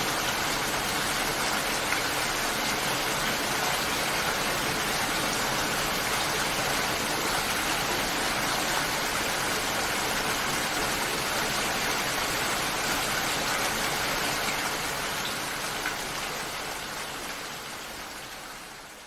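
Steady, dense rainfall, an even hiss of drops with no distinct rhythm, fading out gradually over the last few seconds.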